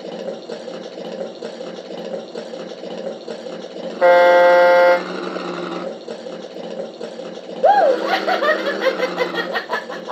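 Sound module for an RC tugboat giving one loud, steady tug-horn blast of about a second, about four seconds in, over a steady hum. Near the end comes a recorded laughing effect in falling, broken peals.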